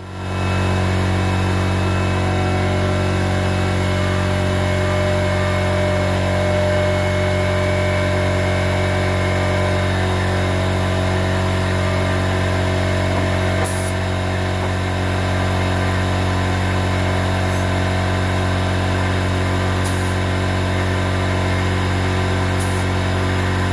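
Air compressor kicking on and running steadily for spray painting, a loud motor hum with a hiss over it. A few faint ticks sound near the middle and toward the end.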